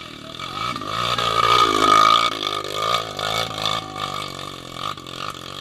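Off-road motorcycle engine revving, its pitch dipping and then climbing again, loudest about two seconds in.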